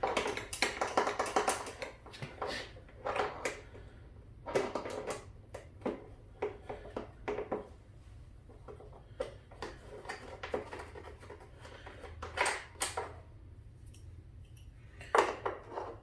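Hand tools working on the mower engine's shroud fasteners: bursts of rapid ratchet-like clicking and metal clatter, several times over.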